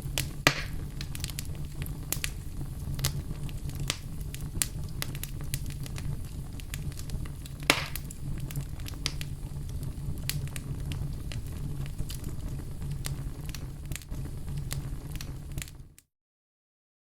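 Wood fire burning in a fireplace: a steady low rumble of flames with constant crackling and two louder pops. The sound drops out to silence for about a second near the end.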